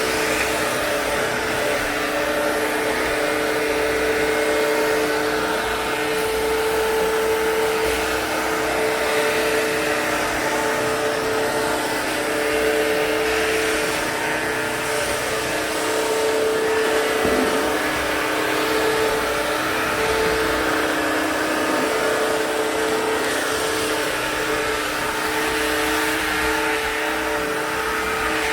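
Bissell CrossWave Cordless Max wet-dry vacuum-mop running as it cleans a hard floor: a steady motor whine over a hiss, wavering a little in pitch.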